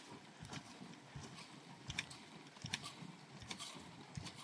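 A series of light, irregular knocks and clicks, about six in four seconds, faint over a low background haze.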